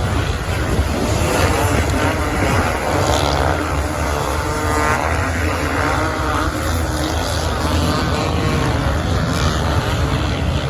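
Engines of racing motorbikes and quads running on sand, their pitch rising and falling as they rev.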